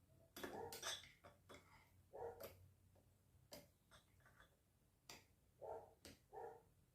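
Faint clicks and light knocks of plastic pedestal-fan parts being handled and fitted into place, with short faint yelps in the background several times.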